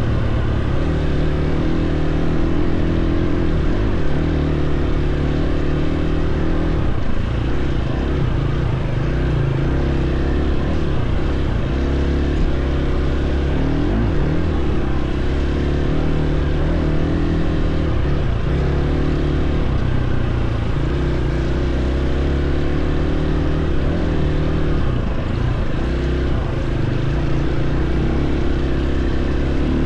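Dirt bike engine running continuously while riding a trail, holding a fairly steady pitch with small rises and falls as the throttle changes.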